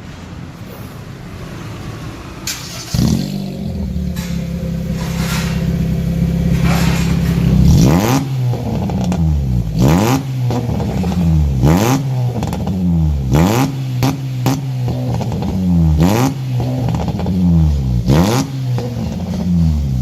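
Honda Mobilio's four-cylinder engine heard through its aftermarket exhaust of new downpipe, front pipe and rear muffler. It steps up to held revs about three seconds in, then is blipped again and again, roughly every one and a half to two seconds, each rev rising and falling quickly in pitch.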